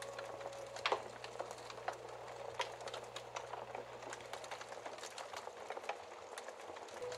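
Wood fire crackling in a fireplace: irregular sharp pops and snaps over a soft hiss, with a louder snap about a second in. A lingering musical note fades out at the start, and a new note starts just at the end.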